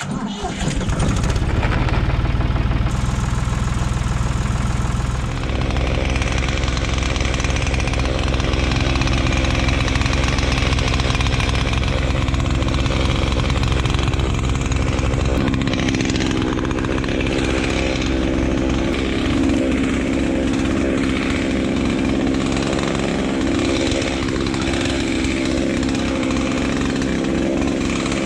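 An engine running steadily, starting abruptly, with its firing pulses clearly audible; its note changes about fifteen seconds in.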